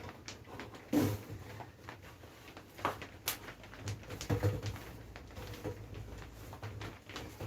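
A few scattered clicks and knocks of heater parts and ducting being handled and pushed into place, the sharpest about a second in and around three seconds in, over a low steady hum.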